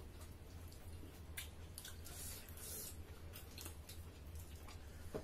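People eating with their hands and chewing, with soft wet smacks and small scattered clicks. A low steady hum runs underneath.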